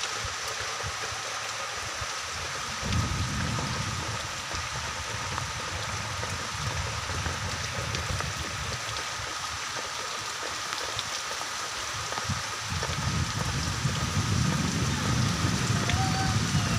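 Steady rain falling on surfaces, an even hiss throughout. A low rumble swells in about three seconds in and again in the last few seconds, growing louder toward the end.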